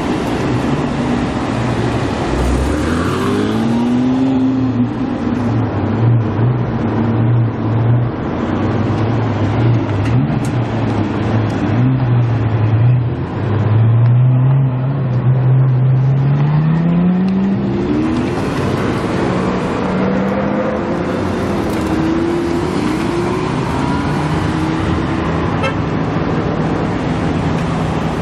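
Supercar engines running and revving, with one sharp rise in pitch about two and a half seconds in and a longer climbing rev in the middle as a car accelerates away, over the steady drone of other engines.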